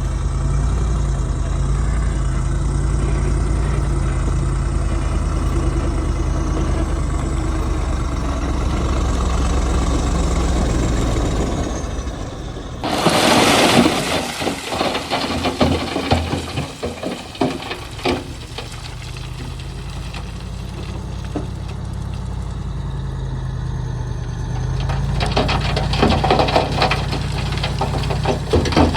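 Bulldozer diesel engine running steadily. About thirteen seconds in, a sudden loud burst of clattering and crunching sets in and dies away over the next few seconds. More dense clattering builds near the end over the running engine.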